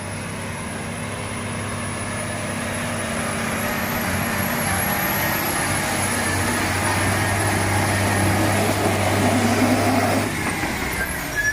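Heavy truck's engine running hard under load with a steady high whine. It grows steadily louder for about ten seconds, then eases off near the end.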